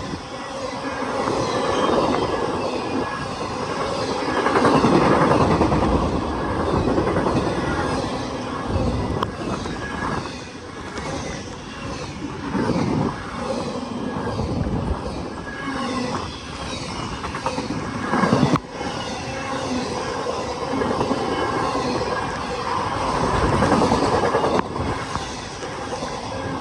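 Freight cars of a CSX intermodal train rolling past, wheels clattering over the rail joints in a continuous rumble that swells and fades. A sharp clank stands out about eighteen seconds in.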